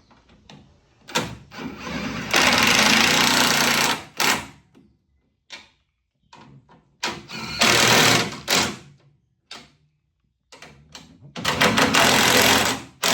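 Impact wrench hammering bolts home in three bursts of one to two seconds each, with short clanks of tools and parts in between.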